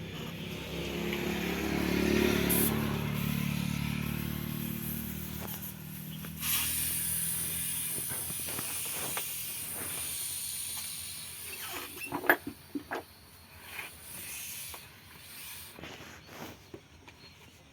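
A motor vehicle's engine passes by, rising and then fading over the first few seconds. A steady hiss follows, then several sharp metallic knocks and clinks.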